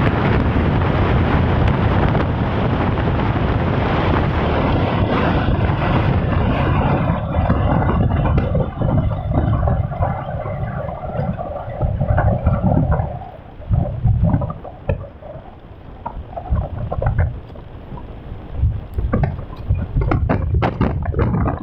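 Wind buffeting the microphone on a moving motorcycle, a dense steady rush for about the first twelve seconds. After that it drops and comes in uneven gusts.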